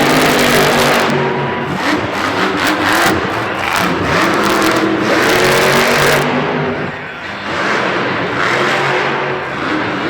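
Monster truck engine revving hard, rising and falling, with a series of sharp cracks in the first six seconds or so.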